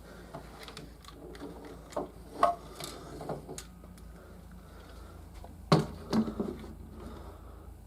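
A few scattered knocks and clicks of things being handled and set down, with a pair of louder knocks about two and a half seconds in and another cluster around six seconds in.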